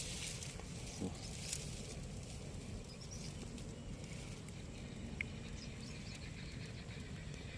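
Quiet outdoor ambience: a low steady rumble with a couple of soft clicks early on and a single short, high bird chirp a little past the middle.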